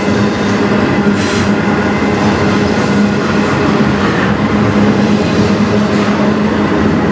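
Double-stack intermodal container well cars rolling past close by: a loud, steady rumble of steel wheels on rail with a low hum, and a brief higher hiss about a second in.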